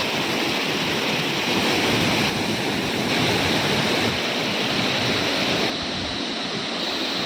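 Nuranang Falls waterfall rushing: a loud, steady roar of falling water and spray, shifting slightly in level a couple of times.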